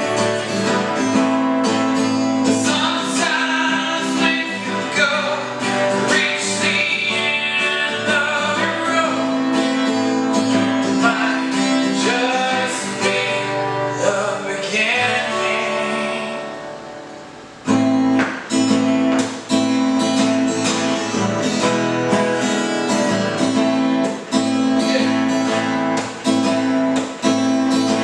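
Acoustic guitar strummed in steady chords with a voice singing over it. About sixteen seconds in the playing dies away, then strumming starts again abruptly a moment later.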